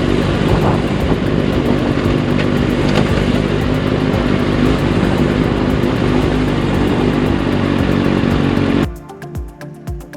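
Kawasaki Ninja ZX-6R's inline-four engine running steadily through a Delkevic carbon fiber exhaust on the move, with wind rush. About nine seconds in it cuts off abruptly to music with a regular beat.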